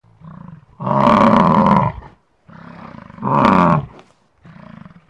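Bison bellowing: deep calls repeated about every two seconds, each a quieter lead-in followed by a loud bellow about a second long, the last one starting near the end.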